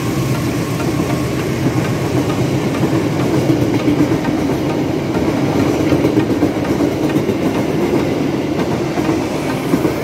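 A passenger train's stainless-steel coaches passing close by at speed: steady noise of wheels running on the rails.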